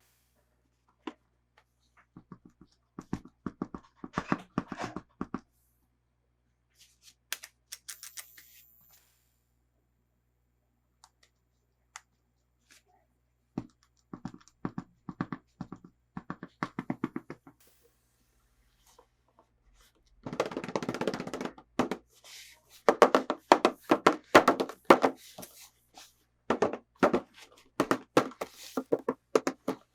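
Hands handling and opening toy packaging: quick clusters of small clicks and taps on plastic and cardboard, coming thicker in the last third, with a brief rustling rush about two-thirds of the way in.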